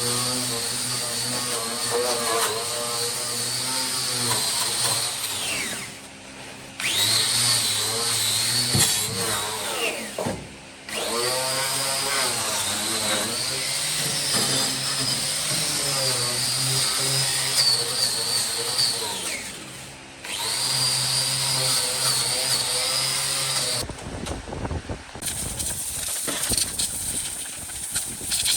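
Electric power tool running with a steady motor whine. It stops and winds down three times, starting up again each time. Near the end the whine gives way to irregular clattering.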